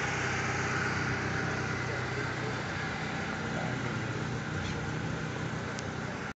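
Chevrolet Chevette's four-cylinder engine idling steadily.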